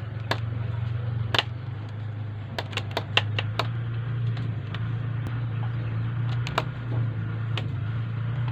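A dog nibbling with its front teeth as if picking out lice, making scattered sharp clicks, a quick run of them a few seconds in. A steady low hum runs underneath.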